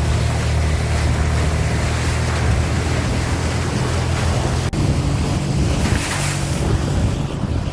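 Speedboat engine running under way, a steady low hum under rushing water and wind buffeting the microphone; the engine note shifts slightly about five seconds in.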